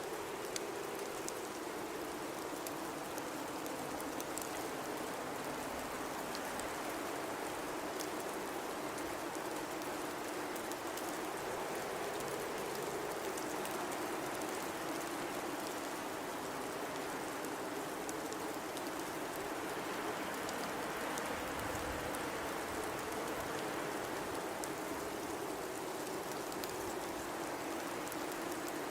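Steady blizzard wind noise, with a low howling band that rises and falls gently, and faint scattered ticks over the top.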